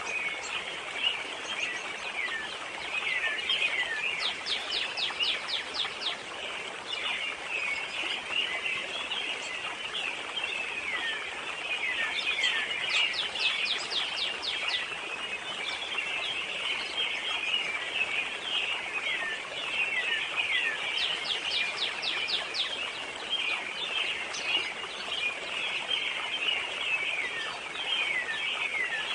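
Forest birds singing in a chorus: many short, falling chirps overlap continuously, while one bird repeats a quick run of high notes about every eight seconds, over a steady background hiss.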